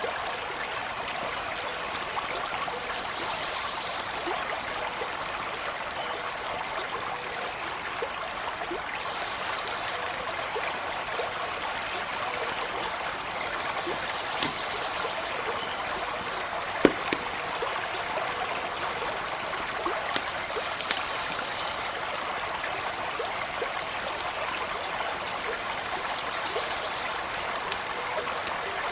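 Stream running steadily, with a few sharp pops from a crackling campfire, mostly in the second half.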